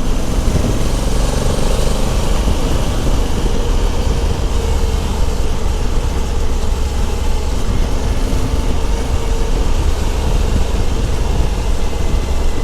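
Honda Africa Twin CRF1100L's 1084 cc parallel-twin engine running steadily under way, mixed with steady wind noise on the move.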